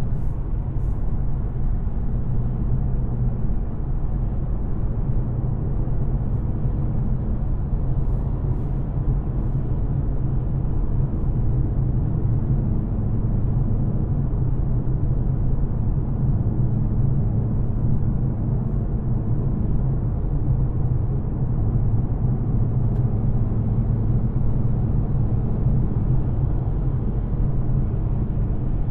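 2024 Ford Mustang GT's 5.0-litre V8 engine and exhaust running at a steady cruise, an even low drone with no revving, together with road noise. The car is in stock form, without aftermarket headers.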